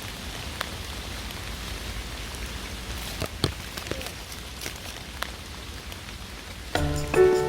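Steady rain falling, an even hiss with scattered sharper drops landing close by. Instrumental music comes in near the end.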